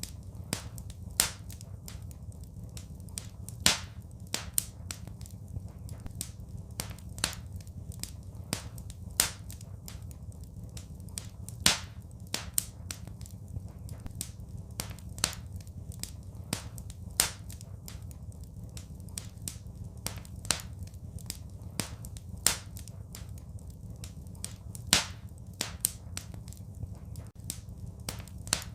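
Wood fire crackling in a fireplace: irregular sharp pops and snaps, some markedly louder, over a steady low rumble.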